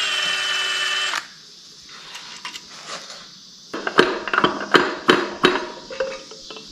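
A small power tool's motor whirs for about a second, settling to a steady pitch, then stops. A few seconds later metal engine parts clink and knock several times as they are handled.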